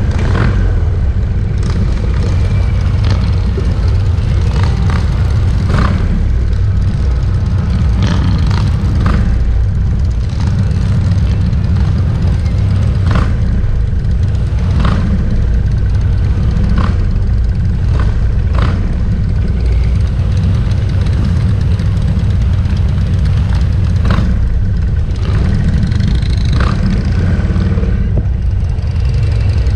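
Steady, loud low rumble of many motorcycles riding past in a mass procession, with short sharper sounds now and then over it.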